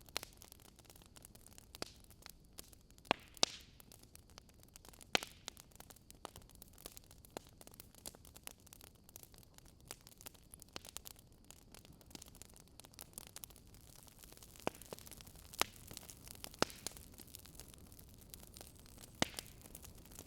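Campfire crackling: irregular sharp pops and snaps of burning wood, a few louder than the rest, over a soft steady hiss.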